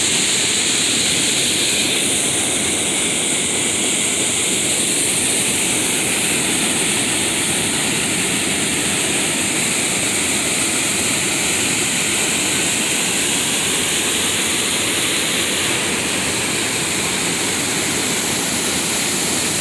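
Steady rush of falling water from a mill's waterfall, an even, unbroken roar.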